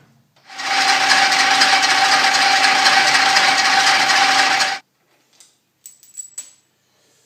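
Pneumatic drill held in a lathe drill fixture, running and drilling a hole in the steel fixture: a loud air hiss with a steady whine that starts about half a second in and cuts off suddenly after about four seconds. A few light clicks follow.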